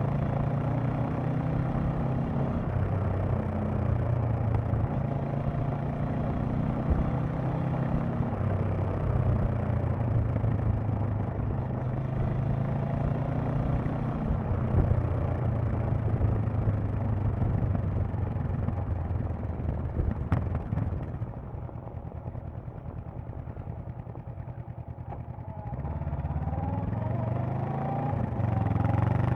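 Honda CB500X parallel-twin engine and exhaust on the move, its note stepping up and down with throttle and gears. About two-thirds of the way in the throttle closes and the engine drops to a quieter, low note for several seconds. Near the end it revs up again as the bike accelerates.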